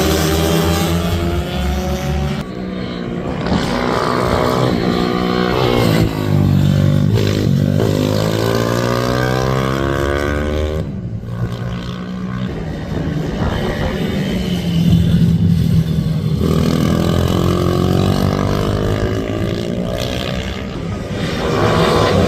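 Several racing minibike engines revving hard on track, their notes climbing repeatedly and dropping away as bikes pass.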